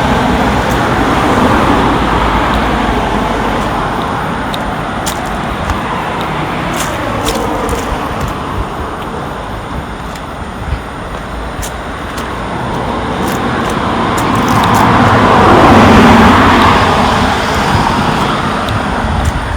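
Road traffic going by, with one vehicle passing close and growing loudest about three-quarters of the way through before fading.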